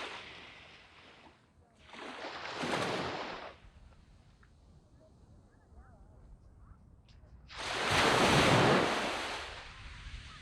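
Small sea waves breaking and washing up a sandy beach: three surges of hissing surf, each swelling and fading, the loudest about eight seconds in.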